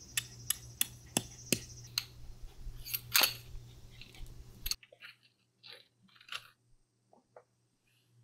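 A series of sharp clicks and knocks, like small objects being handled and set down, over a steady low hum; it cuts off abruptly, followed by fainter scattered taps and rustles.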